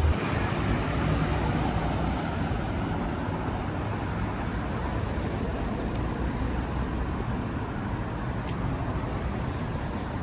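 Steady city road-traffic noise: a continuous hum and rush of passing cars.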